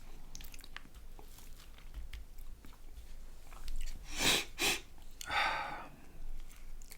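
Close-miked chewing of a mouthful of chicken kebab: soft wet mouth clicks through the first few seconds, then a couple of louder bites or breaths a little past the middle.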